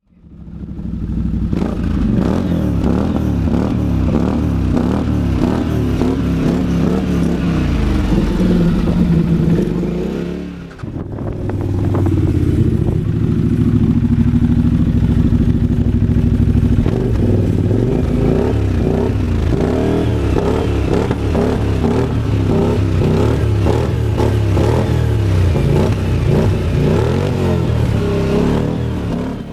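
CFMOTO ZForce 800 EX UTV's V-twin engine running under way, its exhaust note rising and falling with the throttle. It drops briefly about ten seconds in, then picks up again.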